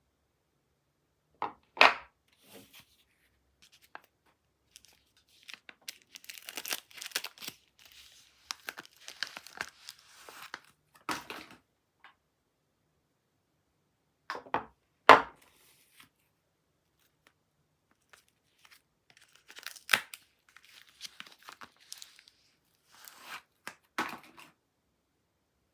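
Soap packaging being torn open and crinkled in bursts, with a few sharp, loud taps or knocks in between and silent gaps.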